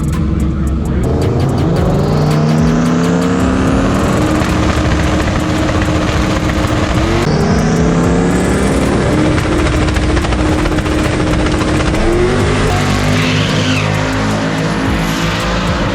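Drag race cars launching and accelerating hard down the strip, engine pitch climbing and then dropping at each gear shift, several times over.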